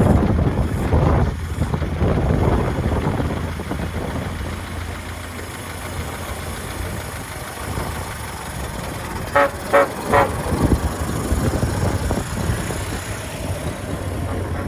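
A 1913 Leyland S3 double-decker bus's four-cylinder petrol engine running, with three short horn toots in quick succession about nine and a half seconds in.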